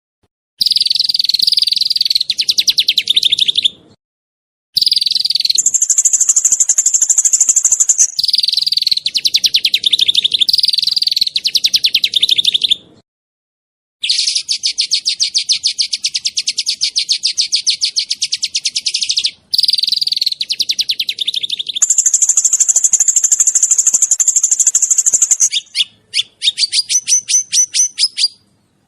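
Small songbird firing rapid, tightly packed trills of high sharp notes, the 'tembakan' shooting call. They come in bursts of a few seconds that switch abruptly from one pattern to another, with two short silent gaps.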